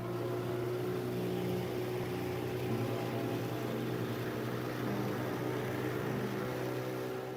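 Small outboard motor on an aluminium tinny running at a steady speed with the boat under way, a constant hum with no change in pitch.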